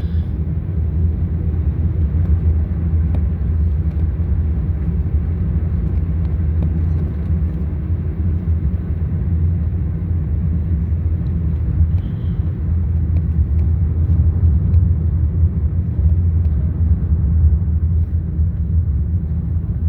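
Steady low rumble of a car in motion, heard from inside the cabin: engine and road noise holding even throughout.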